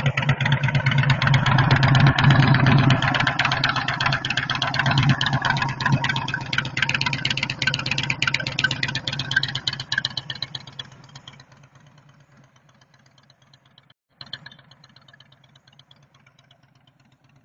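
Motorcycle engine running steadily at low revs, loud at first and then fading away over a few seconds. A fainter engine carries on after a brief break near the end.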